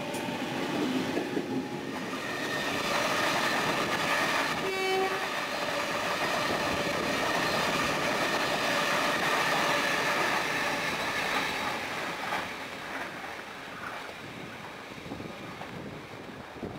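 Sydney double-deck electric suburban train running past on the rails, a loud steady rolling rumble with a thin high whine held over it. A short horn note sounds about five seconds in, and the noise fades over the last few seconds as the train draws away.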